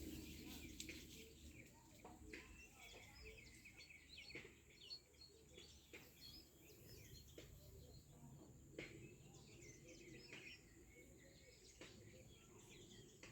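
Faint birds chirping and calling, with a few soft clicks over quiet outdoor background noise.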